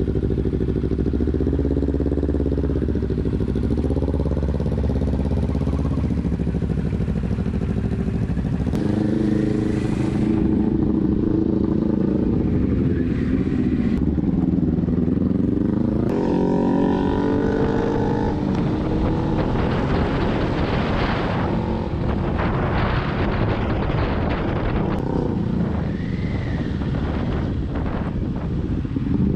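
Motorcycle engine heard from the rider's seat, its pitch rising and falling several times as the bike speeds up and slows through traffic. Wind rush over the microphone joins it in the second half.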